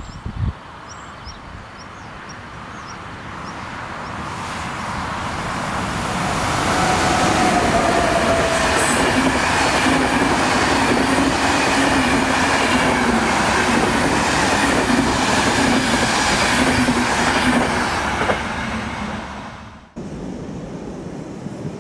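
Locomotive-hauled passenger train approaching and passing close by, building to a loud steady rumble with a repeating clickety-clack of the coaches' wheels over the rail joints, then fading. The sound is cut off abruptly about 20 seconds in.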